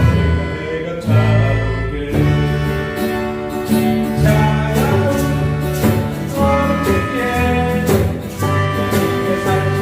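Group singing a song with instrumental accompaniment that keeps a steady beat.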